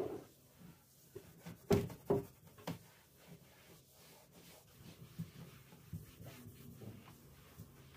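Light knocks and clatter of household items being handled and set down, with soft rubbing and scraping between them; the loudest knocks come as a close pair about two seconds in.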